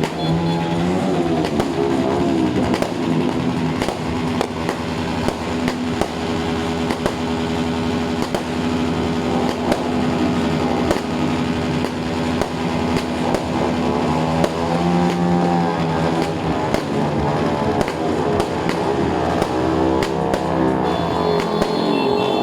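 Background music running throughout, over a long series of sharp bangs from a 36-shot firework cake firing its shots one after another.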